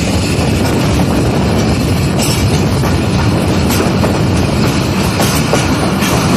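Passenger train running at speed, heard from a carriage window: a loud, steady rush of wheel and rail noise, with a few sharp clicks.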